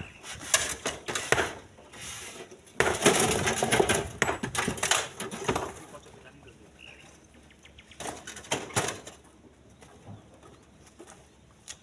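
Split stones clattering and knocking as they are tossed by hand into a truck bed. There is a dense run of knocks about three seconds in and a shorter one about eight seconds in.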